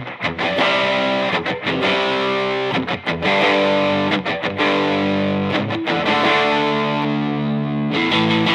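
Squier Jazzmaster 40th Anniversary electric guitar playing sustained chords that change every second or so, with brief breaks between them.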